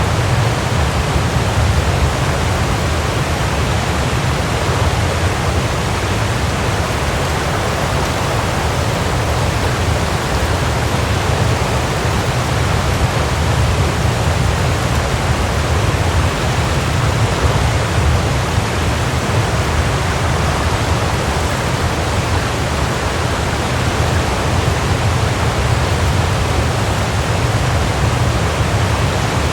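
Waterfall: water falling and crashing in a steady, unbroken rush, with a heavy low rumble.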